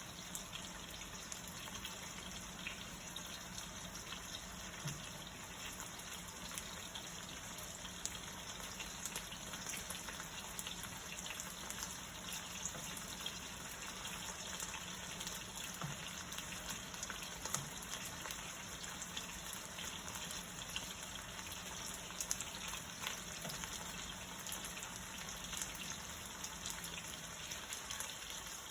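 Bite-sized, cornstarch-coated chicken pieces sizzling steadily in hot oil in a pan, a dense crackle of small spits and pops.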